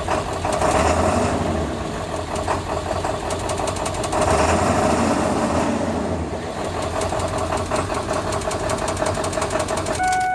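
2000 Ford 7.3L Power Stroke turbo-diesel V8 idling roughly, with diesel knock and uneven rises and falls in its running. A steady beep sounds near the end.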